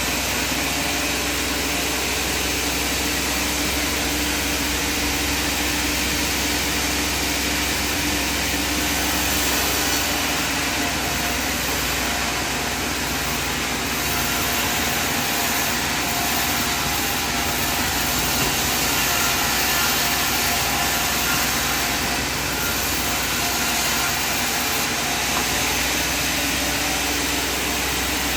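Sawmill machinery running steadily: a continuous low hum under an even hiss, with no breaks or changes in pitch.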